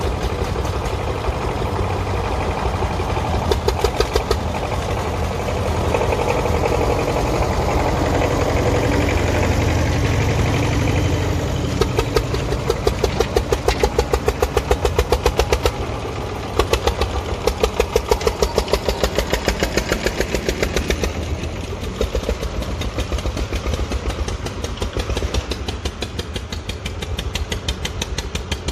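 Tractor engine running with an even chugging firing beat, swelling louder about a quarter of the way in and pulsing most strongly through the middle.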